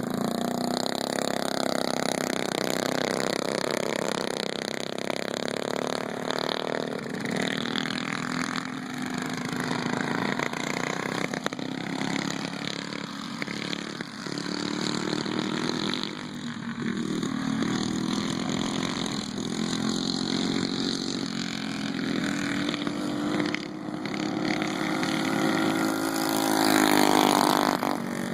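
Mini bike engines running hard on a race track, their pitch rising and falling as the riders throttle up and back off, with more than one engine heard at once. Loudest near the end.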